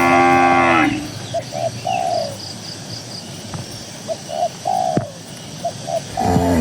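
A cow moos once at the start, a short pitched call of under a second. A dove then coos repeatedly, a phrase of two short notes and a longer one, heard three times. Faint high chirps of a small bird come in between.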